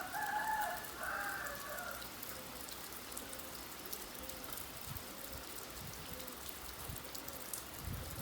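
Steady rain falling, with a rooster crowing once at the start, a call of about two seconds in two parts.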